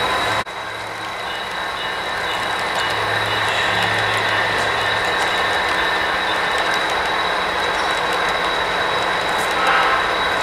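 A train running on its track: steady wheel and running noise with a thin, steady high whine, cut off by a sharp break just under half a second in before carrying on.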